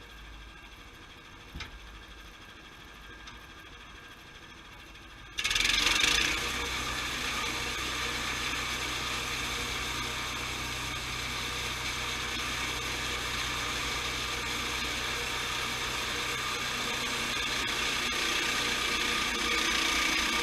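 Sawmill machinery starting up suddenly about five seconds in after a low hum and a single click, then running steadily and loud.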